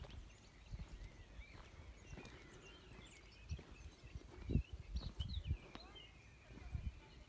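Small birds chirping and twittering continuously, with a number of dull low thumps, the loudest about halfway through.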